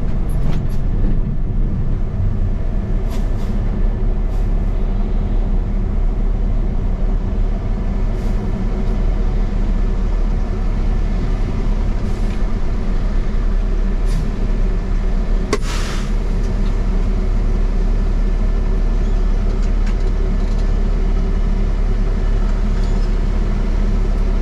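Truck engine running steadily on the road, with a short hiss about fifteen seconds in.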